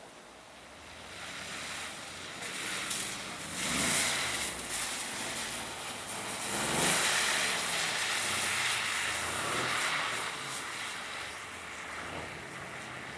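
Mercedes-AMG cars being driven hard on a track, engines revving and changing pitch as they pass close by, loudest about four and seven seconds in.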